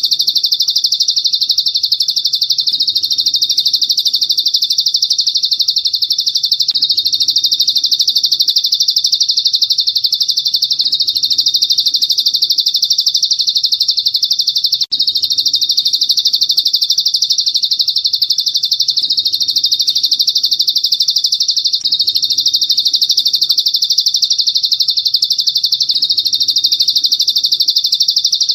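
Recorded songbird tutor song ('masteran'): one continuous, very rapid high-pitched trill held without a break, with a brief dropout about halfway through.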